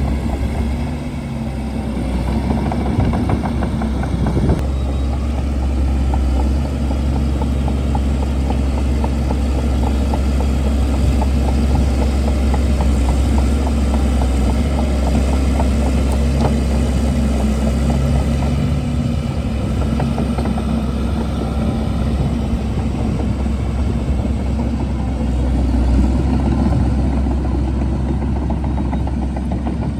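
Shantui DH17C2 crawler bulldozer's diesel engine running steadily with a deep rumble, its pitch wavering slightly as the machine works.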